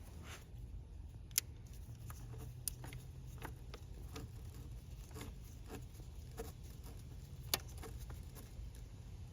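Scattered small clicks and light handling noises over a low steady hum, with three sharper clicks, the loudest about a second and a half in and again near the end.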